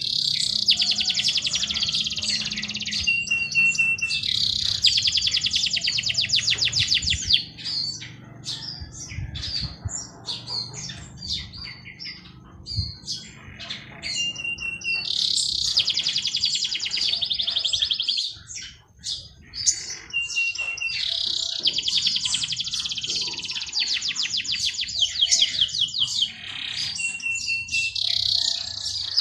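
Songbirds singing: one bird repeats a song of a short held whistle followed by a long, fast trill, several times over, with scattered short chirps from other birds between the songs.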